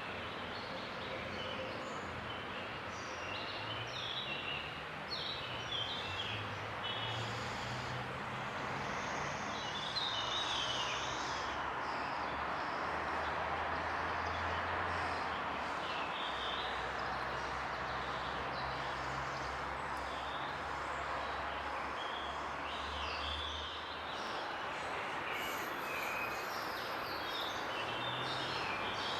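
Outdoor ambience: small birds chirping on and off over a steady hiss and a low rumble of distant traffic, the rumble swelling in the middle and easing off again.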